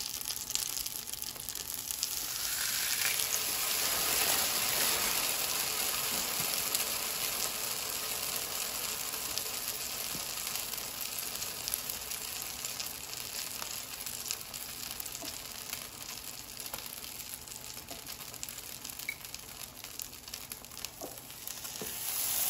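Butter sizzling and crackling on a hot electric griddle as milk-soaked bread slices fry for eggless French toast. The sizzle swells a couple of seconds in and again near the end as fresh wet slices are laid down.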